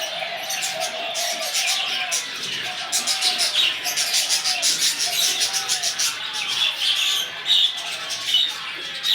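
Small birds chirping rapidly and continuously, with pigeons cooing in repeated arching calls underneath and a few louder chirps in the second half.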